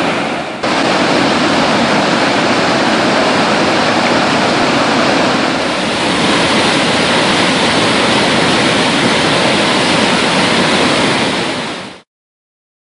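Waterfall rushing steadily, a dense even wash of falling water, with a brief dip about half a second in. It fades out quickly near the end.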